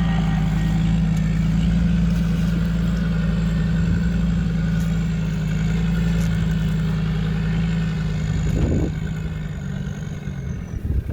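Off-road 4x4's engine running steadily at low revs, dying away about ten seconds in.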